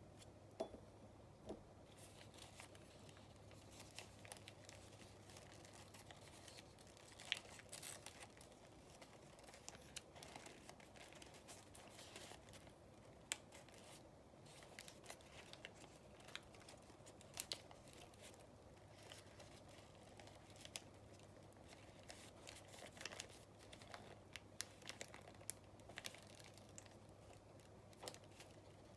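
Faint crinkling and sharp little creasing clicks of origami paper being handled and folded, irregular and scattered throughout.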